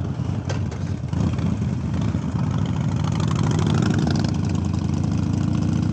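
Harley-Davidson Iron 883 Sportster's air-cooled V-twin engine running under a rider and passenger. It gets louder about a second in, then holds at a steady pace.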